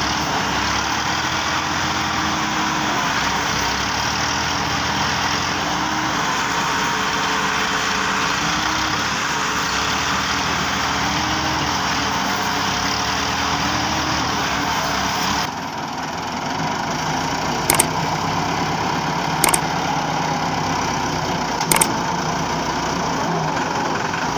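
Massey Ferguson tractor diesel engine running steadily, its pitch wavering slightly. About two-thirds of the way through the sound changes abruptly, and three sharp knocks follow, roughly two seconds apart.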